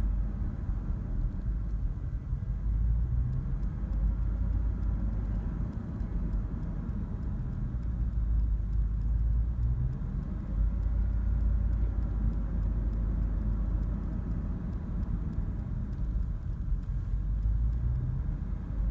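Dodge Durango's 5.7-litre Hemi V8 idling rough in park with a low, uneven rumble; it doesn't stall, a rough-idle fault that shows only in park and not in drive.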